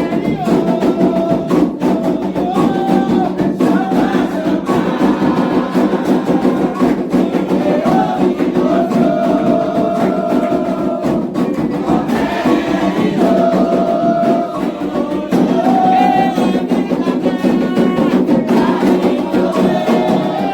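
Candomblé atabaque drums played in a dense, steady rhythm under sung chants for the orixá Oxumaré, the voices holding long notes over the drumming.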